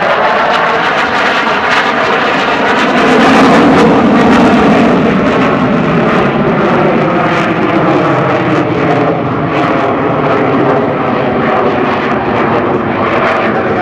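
KAI T-50 Golden Eagle's single General Electric F404 turbofan jet engine running loud as the trainer flies a Cuban eight over the show. The roar swells to its loudest about three to five seconds in, then holds a little lower.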